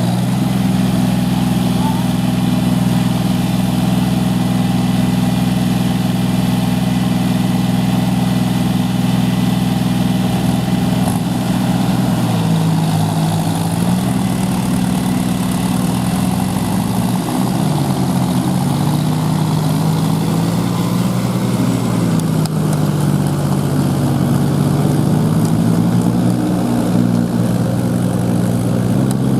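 Tractor diesel engine running loudly, steady at first, then from a little under halfway through its speed rises and falls again and again as it works under load to pull free of the mud.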